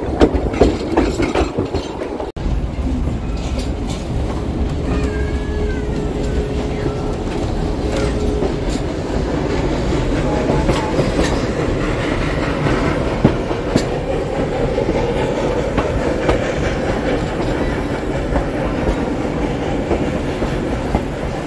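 Passenger car of the 1880 Train, a vintage steam excursion train, riding along the track with a steady rumble of wheels on rail; a faint steady tone is heard for a few seconds in the middle.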